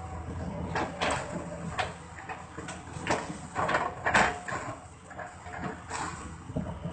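Excavator engine running with a steady low hum under a series of irregular sharp knocks and cracks, as it chips up old trunks.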